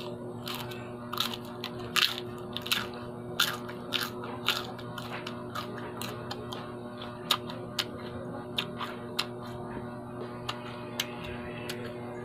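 Crunching and chewing of a raw insulin plant leaf: irregular sharp crunches, thickest in the first five seconds and sparser after, over a steady background hum.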